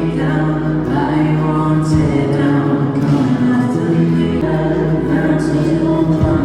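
Music: a choir singing sustained chords over a steady low bass.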